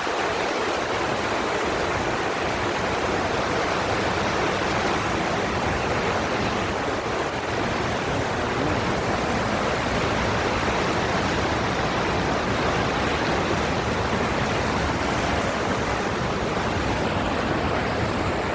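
Steady rushing water, an even hiss without breaks.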